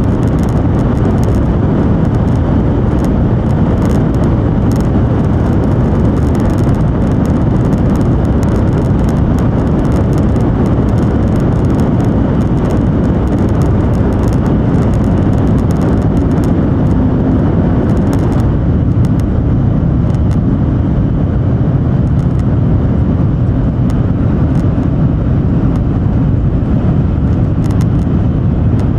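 Cabin noise of an N700 series Shinkansen train running at speed: a steady deep rumble and rush. About two-thirds of the way through, the higher part of the rush drops off noticeably while the low rumble carries on.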